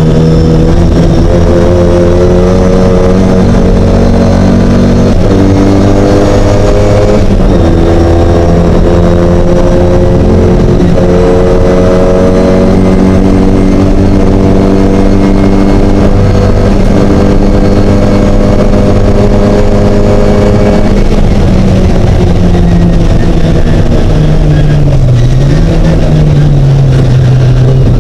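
Classic Mini race car engine running hard and continuously, its pitch stepping up and down with gear changes and dropping lower near the end.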